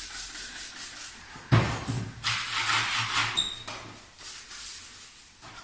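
A single knock about one and a half seconds in, then a couple of seconds of rustling and handling noise.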